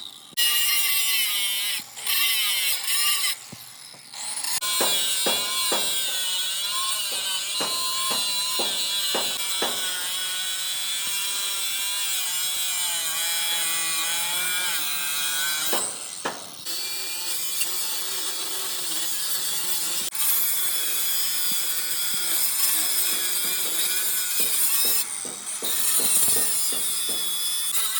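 Angle grinder working on the steel of a loader boom. Its whine wavers up and down as the load changes, and it stops briefly a few times.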